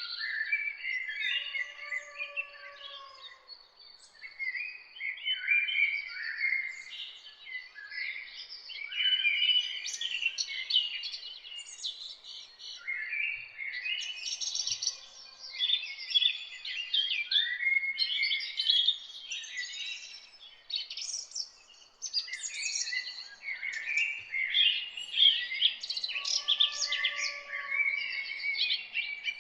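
Several songbirds singing and chirping at once, a dense chorus of quick, high chirps and trills with no pause. A lower, softer pair of notes comes in twice, a couple of seconds in and near the end.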